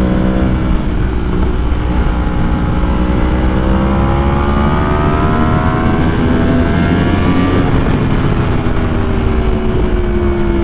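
Yamaha R1 sport bike's inline-four engine under way, its pitch climbing slowly as the bike accelerates, then easing and slowly dropping near the end, with wind rushing over the helmet microphone.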